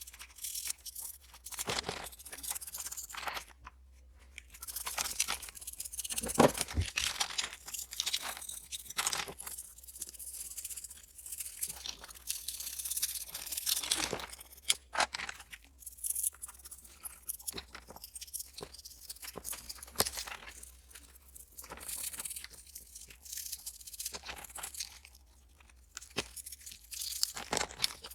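Close-up scratchy rubbing and crinkling sounds in irregular bursts, from hands working on a small die-cast scale model car.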